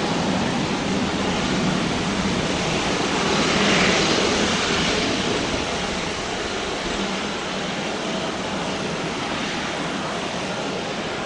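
Jet engine noise of a Starlux Airbus A350-941, with Rolls-Royce Trent XWB engines, passing on the runway. It is loudest about four seconds in and then slowly fades as the aircraft moves away.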